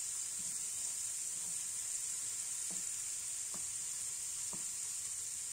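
Shallots, curry leaves and ginger-garlic paste sizzling steadily in hot oil in a pan, fried until the raw ginger-garlic smell is gone. Three soft knocks of a wooden spatula stirring them come in the second half.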